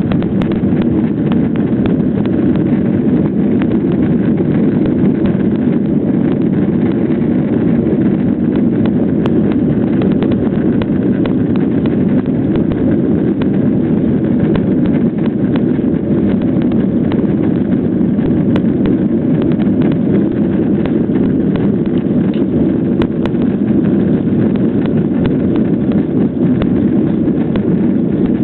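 Jet airliner cabin noise during takeoff: a loud, steady rumble of the engines and airflow, with a fast patter of small rattles and knocks running through it.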